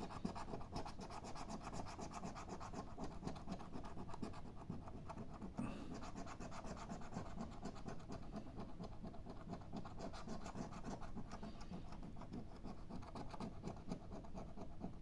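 Scratch-off lottery ticket being scratched: rapid, continuous short rubbing strokes scraping off the latex coating, faint and steady.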